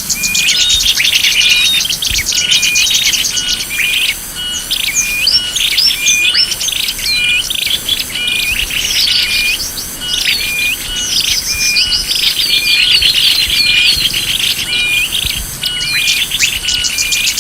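Bird-lure recording of small songbirds: dense, overlapping chirps and rapid trills, with a short call repeating at even intervals throughout, as a looped track.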